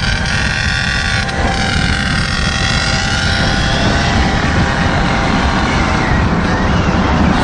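Small engine of a goped or mini bike running while riding, its whine rising and falling in pitch over the first few seconds. Heavy low wind rumble on the microphone sits underneath throughout.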